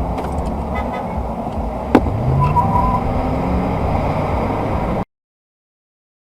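Car engine and road noise heard from inside a moving car. The engine pitch rises about two seconds in as it speeds up, with a sharp click around then. The sound cuts off abruptly to silence about five seconds in.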